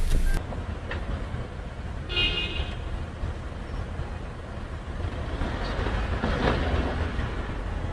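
Car driving, with a steady low road and engine rumble, and a brief horn toot about two seconds in.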